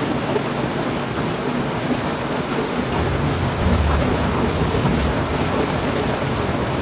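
Heavy rain falling steadily, with a low rumble of thunder rising about halfway through and lingering for a couple of seconds.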